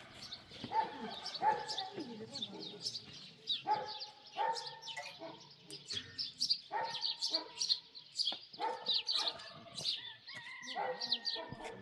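Short animal calls repeated about eight times, often in pairs, over steady chirping of small birds.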